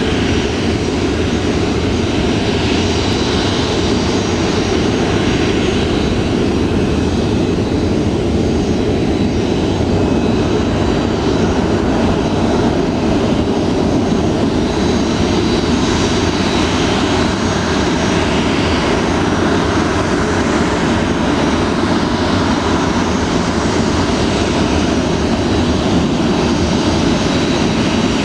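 Boeing 737-400's CFM56 jet engines running steadily: a loud, even low rumble with a faint high-pitched fan whine above it.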